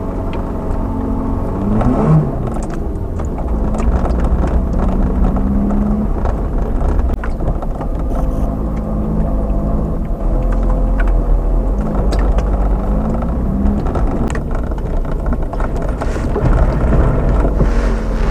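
Manual VW Jetta's 2.0-litre four-cylinder engine pulling the car along snowy roads, its pitch rising and falling with throttle and gear changes, over steady road rumble. Scattered knocks and clicks run through it, and there is a rush of hiss near the end.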